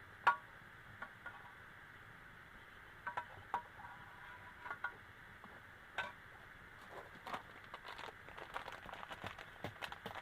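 Rain pattering steadily, with irregular drips and small sharp ticks that grow more frequent in the second half, and a few brief metallic clinks.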